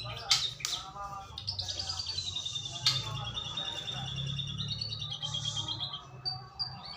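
White-rumped shama singing: short whistled phrases and sharp clicks, then a long rapid trill that slides slightly down in pitch from about a second and a half in until about six seconds. A steady low hum runs underneath.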